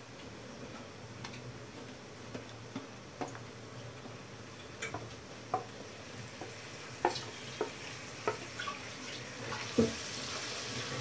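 Ginger-garlic paste and sliced onions sizzling in hot oil in a nonstick frying pan, with a wooden spatula tapping and scraping the pan as the paste is stirred in. The sizzle grows louder near the end as the paste is mixed through.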